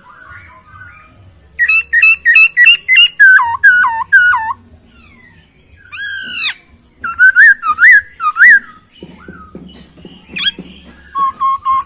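Poksay hongkong (Chinese hwamei) singing loud, clear whistled phrases. First comes a fast run of repeated hooked notes, then a long falling sweep, then looping up-and-down notes. Near the end it sings a string of even, evenly spaced notes.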